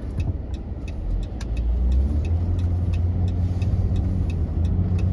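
Car turn-signal indicator ticking about three times a second over the car's engine. About two seconds in, the engine pulls away from a stop, rising in pitch and getting louder, then runs steadily.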